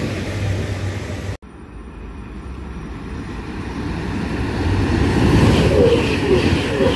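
Train running through the station, cut off suddenly about a second and a half in; then another train approaches, its rumble building steadily louder.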